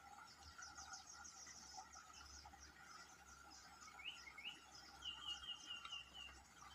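Faint chorus of insects trilling steadily, a fast high pulsing trill over a lower continuous buzz. About four seconds in a bird gives two quick rising chirps, then a rapid series of short notes for about a second and a half.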